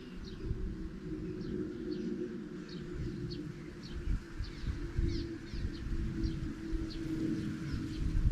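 A bird calling over and over in short, high, falling chirps, about two a second, over a low, uneven rumble.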